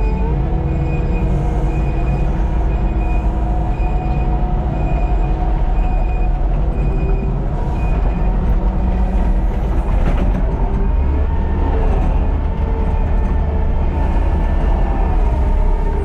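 Wacker Neuson mini excavator working, its engine running steadily under a hydraulic whine, with squealing metallic tones that shift a little in pitch.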